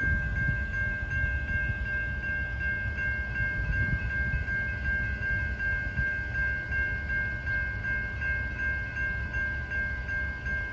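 Railroad grade-crossing warning bell ringing steadily at about two strokes a second, sounding for an approaching train, over a low rumble.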